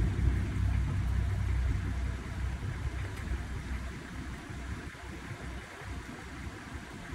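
Four-wheel-drive safari vehicle's engine idling, a steady low rumble that grows quieter about three seconds in.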